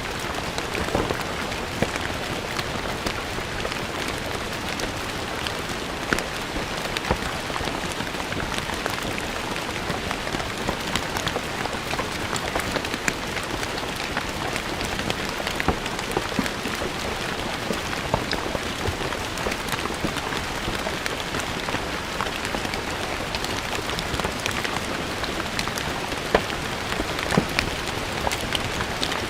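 Steady rain falling on a stone floor, a constant patter with many distinct drops ticking sharply on the stone.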